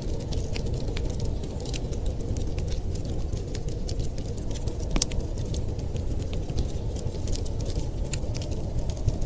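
Wood fire crackling with irregular sharp pops, one stronger pop about five seconds in, over a steady low rushing noise of storm wind.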